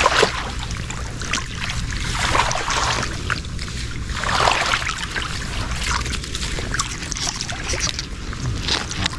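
Legs in chest waders wading through shallow marsh water: irregular sloshing and splashing, over a steady low rumble.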